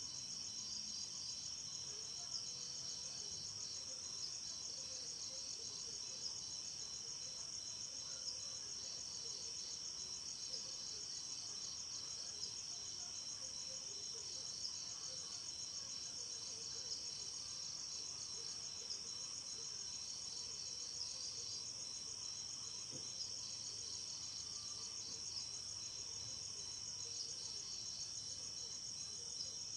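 Night insects, crickets, chirping in a steady high-pitched chorus of rapid, continuous trills.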